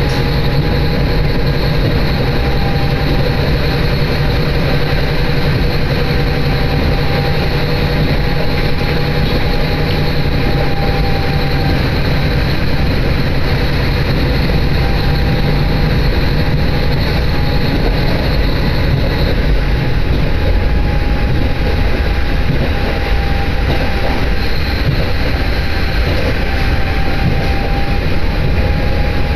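Diesel train running steadily along the line, heard on board: a continuous low rumble of wheels and engine with a steady whine over it.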